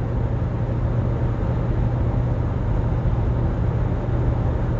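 Steady road and engine noise inside a moving car's cabin, a constant low drone.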